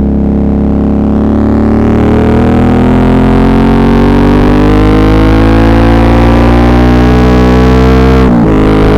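Suzuki V-Strom 650's V-twin engine pulling steadily under throttle, its pitch rising slowly as the bike gains speed. About eight seconds in there is a brief break and the pitch drops: a shift up to the next gear.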